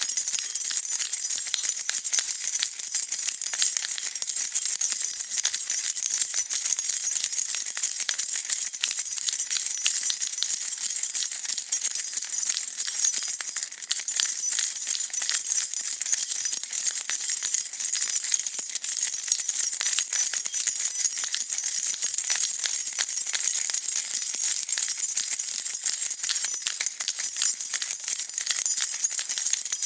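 A bunch of metal keys jingling continuously, shaken in a dense, unbroken rattle of small metallic clinks.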